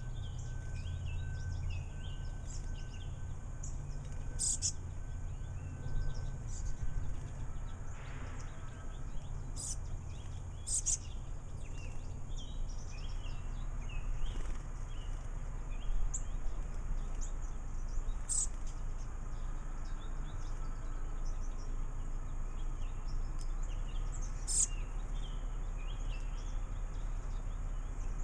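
Small birds giving scattered short chirps and twitters, with a few sharper high calls, over a steady low rumble.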